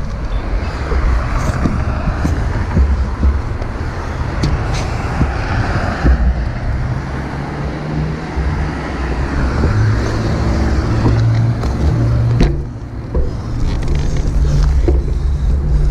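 Wind rushing over a GoPro's microphone on a moving bicycle, a heavy low rumble mixed with road and traffic noise, with a few sharp knocks from bumps and a brief drop in the rush about three-quarters through.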